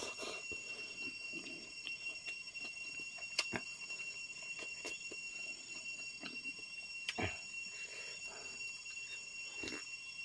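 Close-up eating sounds: chewing, lip smacks and soft clicks as a mouthful of rice and noodles eaten by hand is worked, over a steady high-pitched whine.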